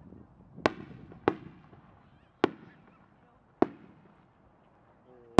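Aerial firework shells bursting overhead: four sharp bangs roughly a second apart, each with a short rumbling tail, then a louder bang at the very end.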